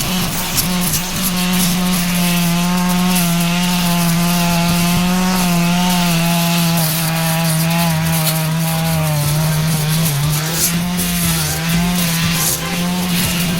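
Two-stroke brush cutter engine running steadily at high revs, its pitch wavering slightly and dipping briefly about ten seconds in.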